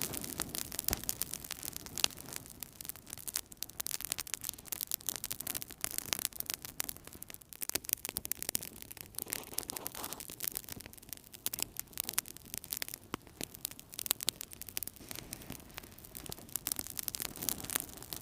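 Wood fire burning in a fireplace, crackling with a dense, irregular run of sharp pops and snaps over a soft low rush of flames.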